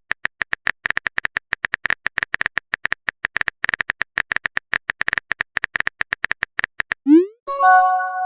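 A text-messaging sound effect: a long run of quick, uneven keyboard-typing clicks, then a short rising whoosh of a message being sent and a chiming message-received tone near the end.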